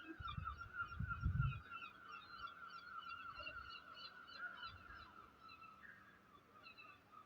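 Distant thunder rumbling low, loudest about a second in, over a steady high-pitched chirring chorus of night insects.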